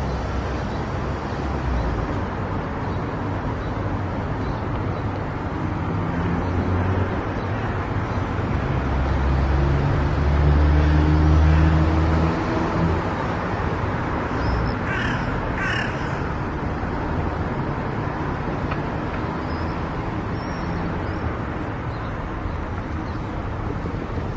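Car travelling on a highway: steady road and tyre noise under a low drone that swells about ten seconds in. About fifteen seconds in, two short harsh calls sound in quick succession.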